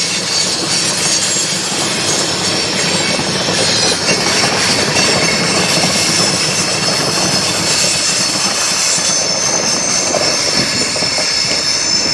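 Train cars rolling past steadily, wheels squealing in a thin, high, continuous tone over the rumble and clack of wheels on rail.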